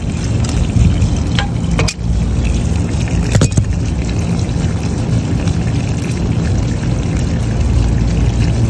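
Water pouring and splashing out of a rooftop HVAC unit's condensate drain as it is opened, over a steady low mechanical hum, with a few light clicks of the fitting being handled in the first few seconds.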